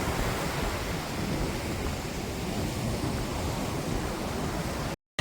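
Wind buffeting the microphone over a steady rush of surf, with no other distinct sound; it cuts off suddenly near the end.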